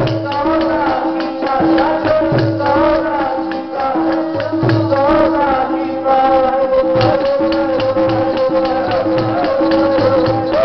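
Sikh kirtan: gurbani sung to a melody that bends up and down over a held drone note, with hand drums and a jingling percussion keeping a steady, quick beat.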